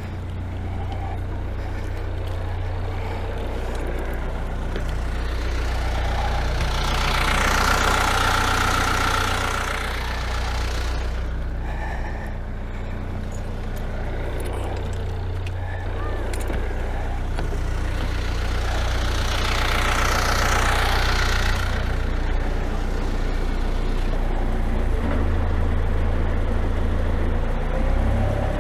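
Perkins 4-108 four-cylinder marine diesel running steadily. Twice a rushing hiss rises over it for a few seconds, once about a third of the way in and again about two-thirds in.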